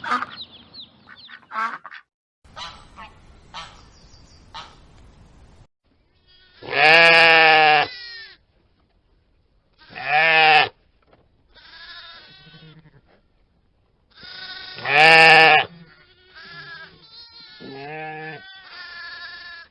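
Bleating goats or sheep: three loud, long, quavering bleats, with several quieter bleats between them and near the end. The first few seconds hold only faint scattered calls and scratchy noise.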